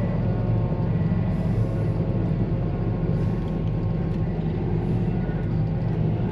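Combine harvester running steadily as it harvests soybeans, its diesel engine giving a constant low hum.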